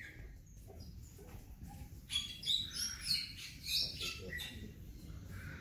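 Birds chirping: a run of short, high chirps about two seconds in, over a low steady background hum.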